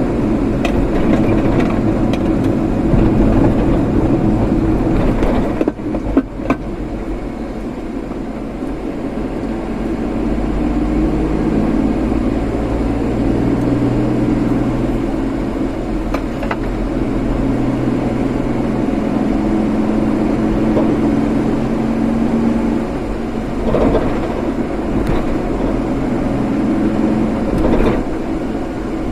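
A car being driven: steady engine and road noise, with the engine's pitch rising and falling as the speed changes.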